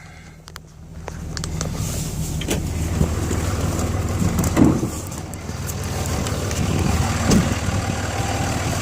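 Ram 2500's Cummins turbo-diesel engine running steadily, getting louder about a second in, with a few short knocks and clicks over it.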